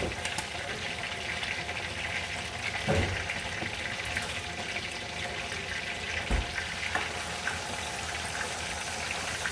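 Food frying in a pan, a steady sizzle, with a couple of short knocks about three and six seconds in.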